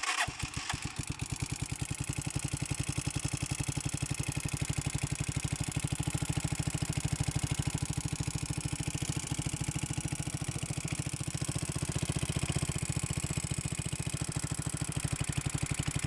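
Motorcycle engine idling steadily with a rapid, regular pulse. The bike has a ticking noise that appeared after oil smoke came out of its crankcase breather.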